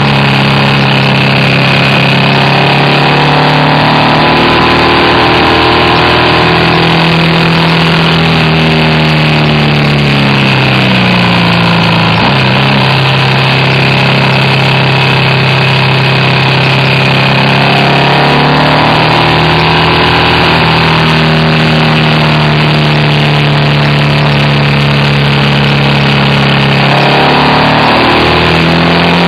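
BMW R1200RT's air/oil-cooled flat-twin boxer engine pulling along on the move, its note sinking twice and climbing again in between, over a steady rush of wind and road noise.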